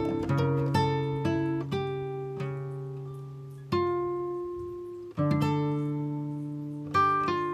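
Background music of plucked acoustic guitar, slow single notes and chords left to ring and fade, with new chords struck about halfway through and near the end.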